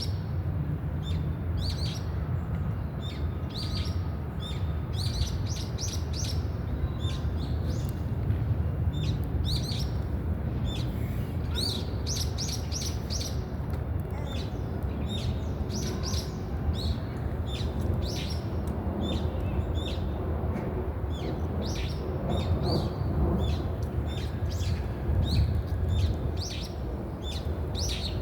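Brown-eared bulbuls calling: many short, high, sharp notes, often in quick runs, repeating all through. A steady low rumble runs underneath.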